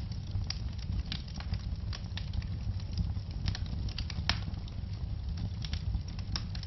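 Wood fire crackling in a fireplace: irregular sharp pops and snaps over a low, steady rumble of the flames, with one louder pop about four seconds in.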